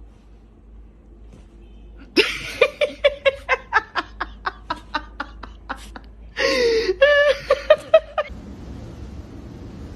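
A person laughing: a run of short, quick 'ha' bursts at about four a second starting about two seconds in. Near the end comes a longer laugh with a falling pitch and a few more quick bursts, then it stops.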